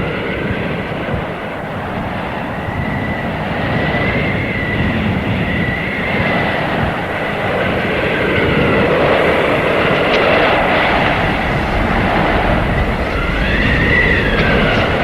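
Blizzard wind blowing hard: a steady loud rush of gusts with a thin howling whistle that wavers up and down in pitch and swells near the end.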